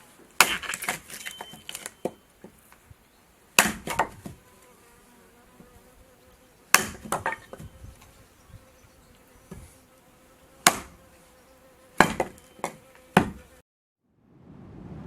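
Clusters of sharp knocks and clinks with short ringing, about six groups spaced a few seconds apart, over a faint steady buzz; the sound cuts off abruptly near the end.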